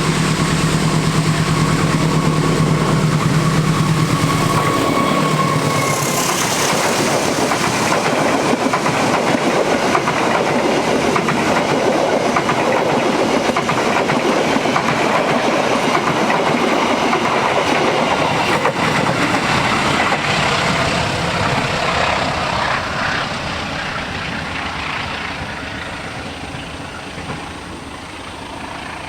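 Two CC201 diesel-electric locomotives coupled together, running light past at speed. Their engine hum and a high tone drop in pitch as they go by about five seconds in, followed by wheels clattering over the rail joints, fading away near the end.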